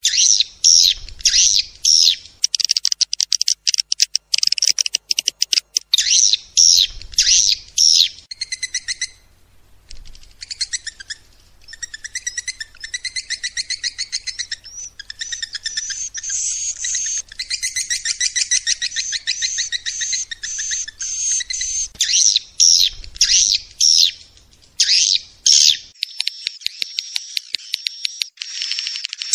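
Swiftlet calls: rapid, chittering trills in repeated bursts, with faster buzzy twittering in the later part. This is the 'suara panggil walet' call sound played to lure swiftlets.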